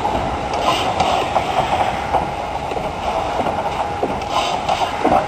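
Steam-hauled heritage passenger train running along the track: a steady rumble with irregular knocks and clatter, and brief hisses about a second in and again near the end.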